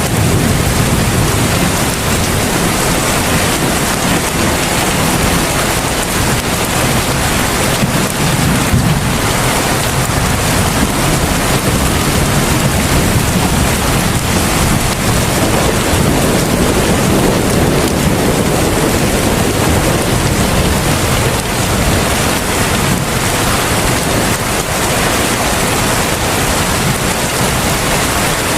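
Heavy rain falling steadily in a dense, even hiss, with a low rumble swelling now and then underneath.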